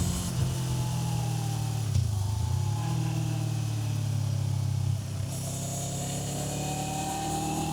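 Kawasaki Z500 parallel-twin engine running under way. Its pitch breaks briefly about two seconds in, then falls and rises again as the revs change.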